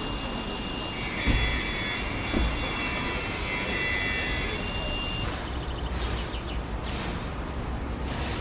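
Steady outdoor rumble, with a hiss and a steady whine for a few seconds like a passing vehicle or aircraft, and two low thumps in the first half. Short bird chirps follow in the second half.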